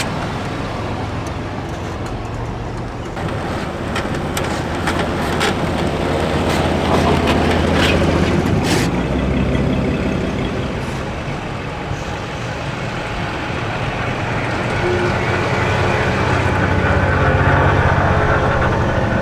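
A vehicle engine running steadily, its pitch rising over the first several seconds and then easing off, with a few sharp clicks near the start.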